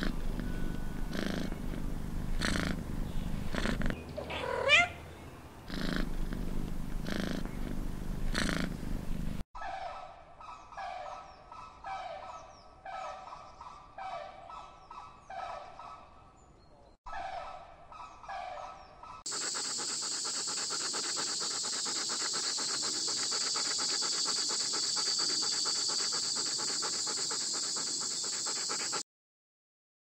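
A domestic cat purring in a steady rhythm of about one pulse a second, with a short rising squeak about four and a half seconds in. Then flamingos honking, a run of short nasal calls close together, followed by a steady high-pitched buzz that stops suddenly.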